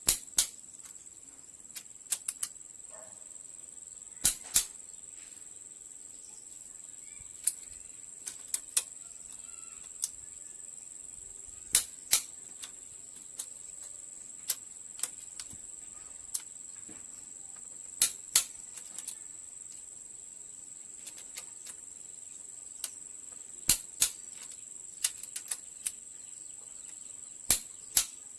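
Sharp metal clicks, mostly in pairs a third of a second apart and repeating every four to six seconds, with lighter ticks between: hand tools at work on the engine.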